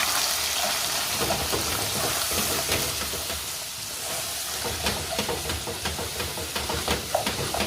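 Browned chicken with diced onion, carrot and garlic sizzling in a frying pan, stirred with a utensil that gives scattered clicks and scrapes.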